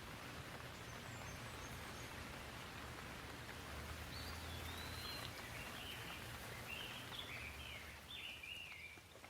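Gentle rain falling, a faint steady hiss, under a low rumble. From about halfway in, a bird calls a string of short, high, sliding chirps.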